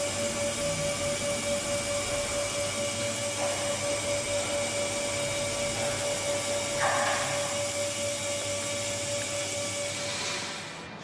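Hydraulic power unit of a truck scissor lift running steadily, a motor whine with a constant tone. A short hiss comes about seven seconds in, and the sound eases off near the end.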